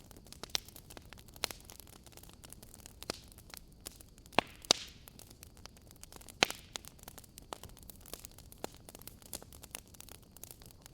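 Wood fire crackling: irregular sharp pops and snaps over a faint steady hiss, with a few louder pops around the middle.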